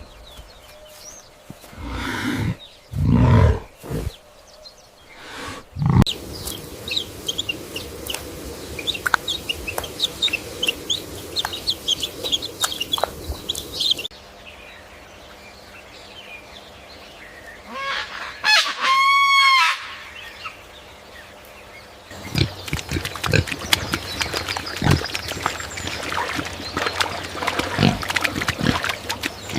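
Chickens clucking and cheeping across several short clips, with one long, loud pitched call about two-thirds of the way through.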